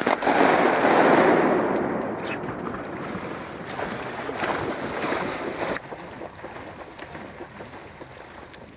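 Rushing, splashing water in flooded timber right after shotgun fire. It is loudest at first, fades over several seconds and cuts off abruptly about six seconds in.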